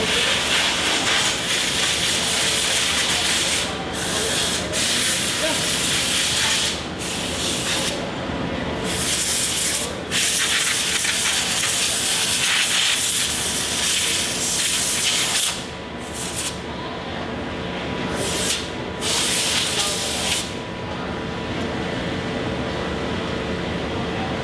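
A power sander or grinder working metal: a loud, rough hiss that stops and restarts every few seconds as the tool is lifted and pressed back on. A steady machinery hum runs underneath.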